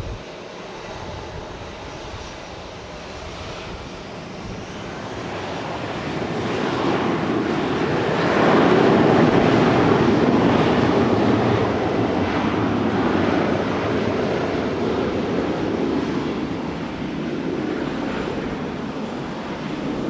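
Jet airliner's engines at takeoff power, a noisy rumble that builds over the first several seconds, peaks loudly around the middle, then eases off slightly.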